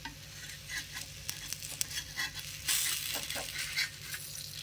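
Chickpea-flour (besan) chilla batter frying in oil on a tawa griddle: a steady sizzle, louder for about a second near the three-second mark. Small clicks and scrapes of a slotted steel spatula working under the pancake against the pan.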